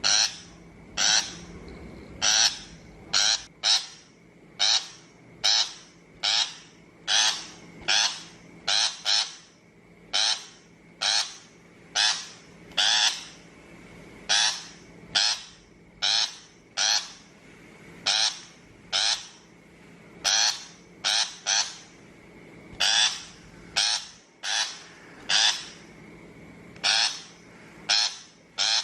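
Shrike giving short, harsh, grating calls over and over, about one a second, some coming in quick pairs.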